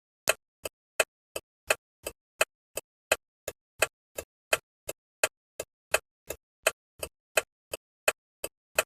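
Bus turn-signal indicator ticking steadily, about three clicks a second alternating loud and soft, the tick-tock of the flasher switching on and off.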